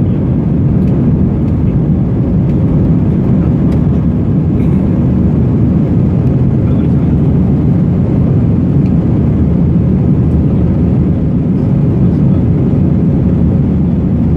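Airbus A321 jet engines running, heard from inside the passenger cabin as a steady low roar.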